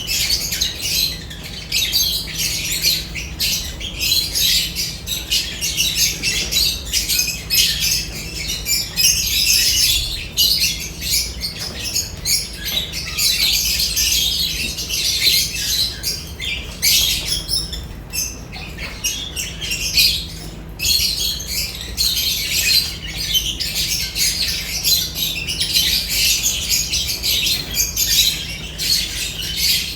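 Lovebirds chattering together in a continuous stream of shrill chirps and squawks.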